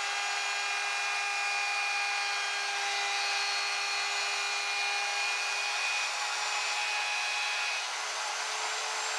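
Power tool running at speed with a steady motor whine; the pitch shifts slightly near the end.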